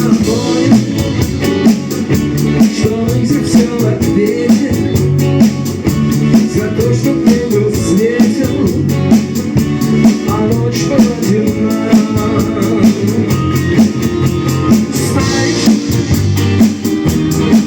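A rock band playing a song live: a drum kit keeps a steady beat under the band, with a voice singing.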